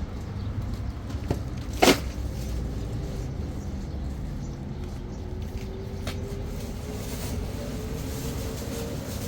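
A vehicle's steady low rumble, with one sharp knock about two seconds in. A faint whine slowly rises in pitch through the second half, as the engine picks up speed.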